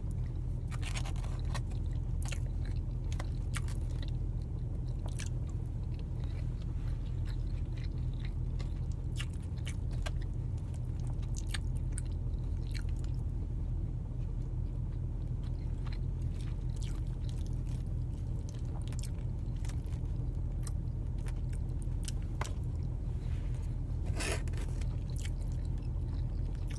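Someone chewing and eating takeout fried rice with a plastic spoon, with scattered small clicks and scrapes of the spoon and mouth, over a steady low hum inside a car.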